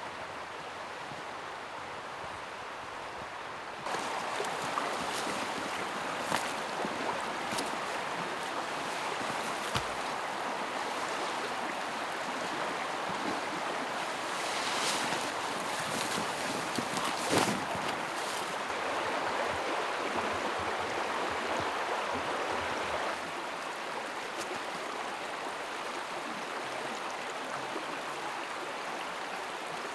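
A river rushing over stones: a steady wash of water noise with a few faint clicks. It jumps louder about four seconds in and drops back down near the end.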